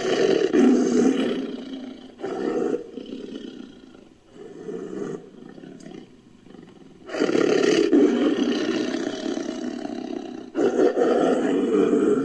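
Designed tiger-like creature roars built from tiger recordings: a long roar at the start, a few shorter roars, then two long roars in the second half.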